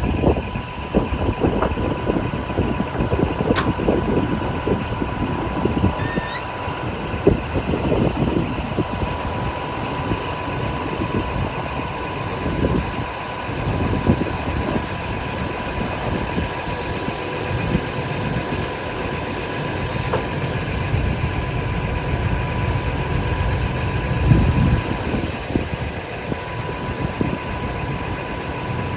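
Scania P420 tipper truck's diesel engine idling, with a steady high whine alongside it.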